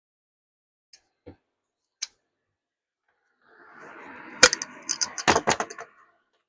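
Hard objects being handled: a few faint clicks, then about halfway through a stretch of rustling with a quick run of sharp clacks.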